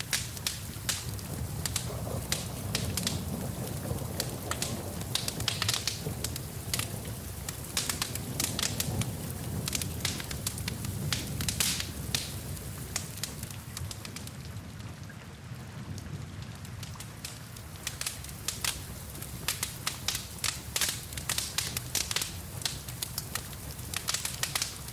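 Wood fire crackling and popping with many sharp snaps over a steady wash of rain and a low rumble. The pops thin out for a few seconds around the middle, then pick up again.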